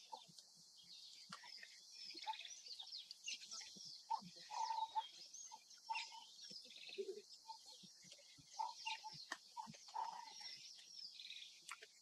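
Wild birds chirping and calling, a dense run of quick high chirps with lower call notes in between, and short scattered clicks.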